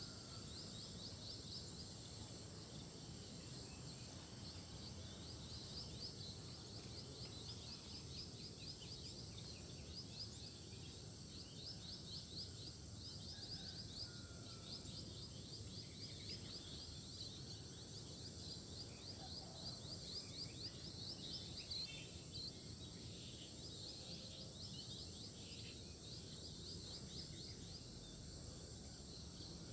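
Faint outdoor ambience: small birds giving quick runs of high chirps again and again, over a steady high insect drone and low background noise.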